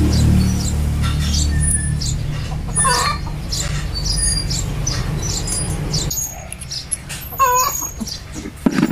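Chickens clucking and chirping, over a low steady rumble that stops about six seconds in.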